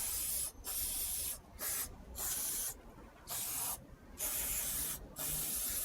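Aerosol can of Würth HHS Clean grease remover spraying in about seven short bursts of hiss, each about half a second, with brief pauses between them. It is being sprayed onto a car door hinge to dissolve the old grease.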